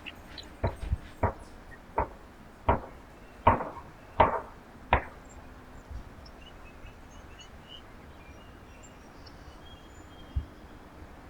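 A run of about eight sharp knocks, roughly one every two-thirds of a second and growing louder, that stops about five seconds in; faint bird chirps follow.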